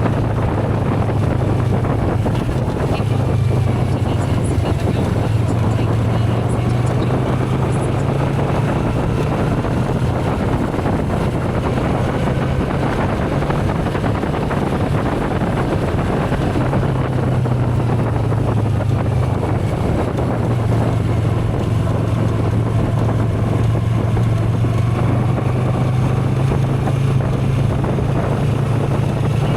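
Motorcycle running at a steady cruise, its engine a constant low drone that eases a little midway, with wind rushing over the microphone.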